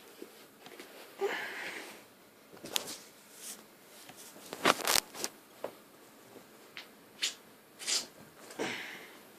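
Handling noise at close range: scattered rustles and about half a dozen sharp clicks and taps, the loudest about five seconds in.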